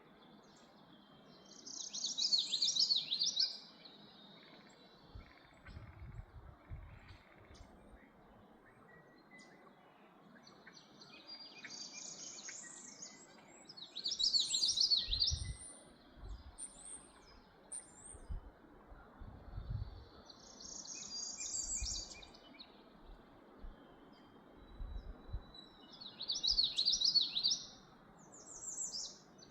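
A songbird singing short, rapid warbling phrases of about two seconds each, repeated every few seconds, over a steady background hiss. A few brief low rumbles come in between the songs.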